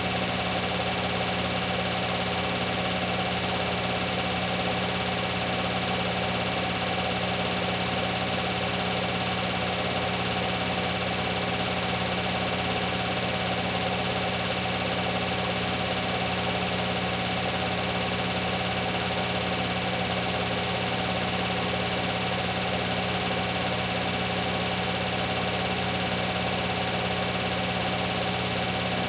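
Beko WTK104121W front-loading washing machine running its spin cycle set to 1400 rpm: a steady whirring hum with several constant tones, holding the same speed throughout.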